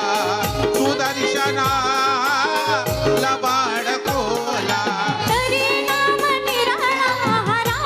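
Konkani jakhadi folk song: a shahir's voice sings a wavering, ornamented melody over a steady, fast drum beat.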